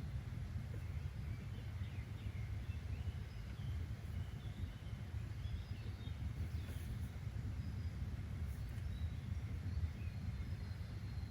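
Outdoor nature ambience: a steady low rumble with faint, scattered bird chirps.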